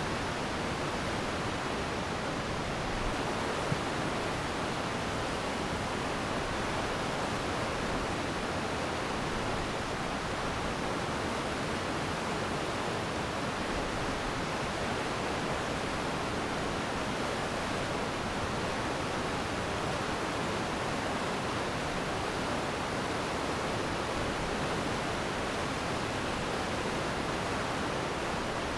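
Glacier meltwater stream flowing fast and steadily, an even hiss of running water with no change in level.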